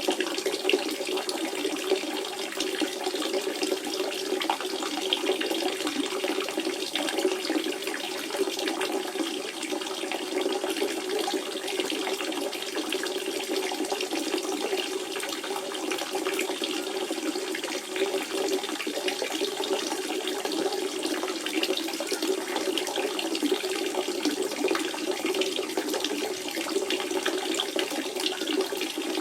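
Natural spring water running and splashing steadily, a continuous bright trickle with a fuller gurgle underneath.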